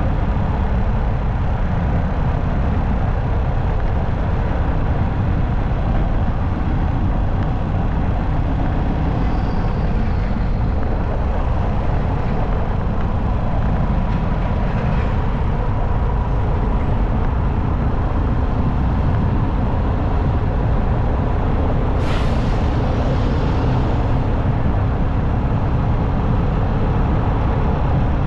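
Steady wind and engine noise of a motorcycle riding at highway speed, with a brief sharp hiss about three-quarters of the way through.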